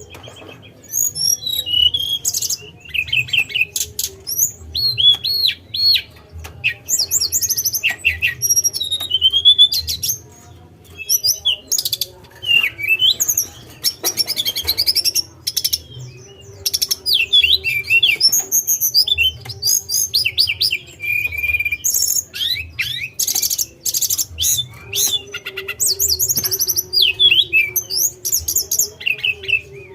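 A tledekan (blue flycatcher) singing a rapid, varied song of chirps, whistled glides and trills, with short pauses. A steady low hum runs underneath.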